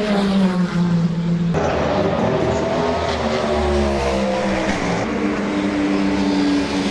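Race car engines passing on a circuit. The pitch of one falls away as it goes by at the start. About a second and a half in, another engine comes in and its note slides down as it passes, and engines keep running steadily afterwards.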